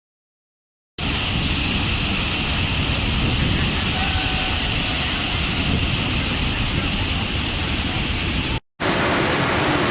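Waterfall: a steady rushing roar of falling water that starts suddenly about a second in. Near the end it cuts out for a moment and returns duller, as another fall.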